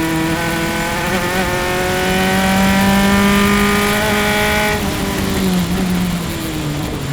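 Single-seater race car's engine heard onboard, accelerating with its note climbing steadily for about four seconds. The pitch then drops and falls away as the car comes off the throttle.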